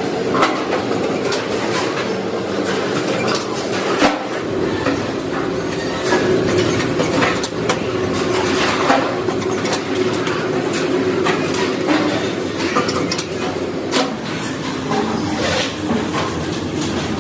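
Factory machinery running steadily, with frequent sharp metallic clicks and knocks over a continuous mechanical hum.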